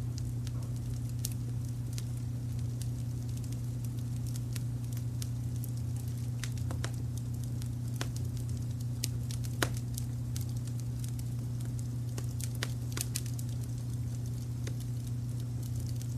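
Wood fire crackling, with scattered sharp pops and snaps, the loudest about ten seconds in, over a steady low rumble of brown noise.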